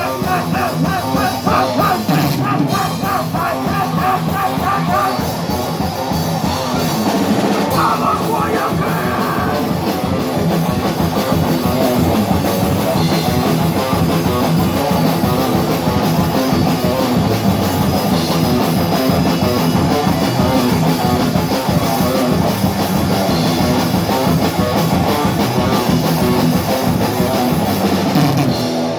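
Thrash metal band playing live: electric guitars and a drum kit at a fast, driving pace.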